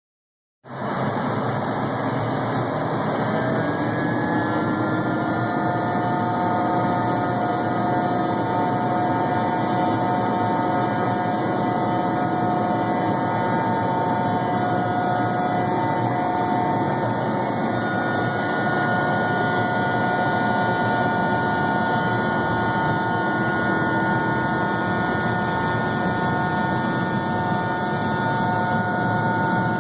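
Learjet 35's Garrett TFE731 turbofan engines at take-off power: a steady roar with a high whine whose pitch rises over the first few seconds and then holds steady.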